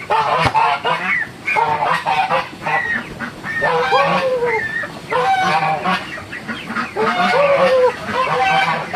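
A flock of domestic laying ducks quacking, many loud calls overlapping without a break.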